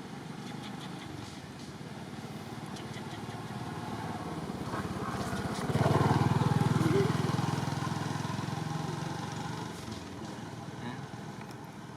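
A motor vehicle's engine passing by. It grows louder, is loudest about six seconds in, then fades away.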